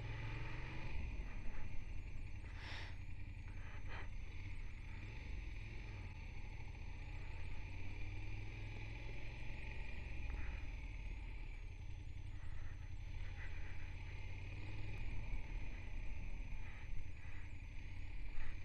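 BMW F 800 GS motorcycle engine running on the move, a steady low rumble mixed with wind rush on the microphone. A couple of brief knocks sound about three and four seconds in.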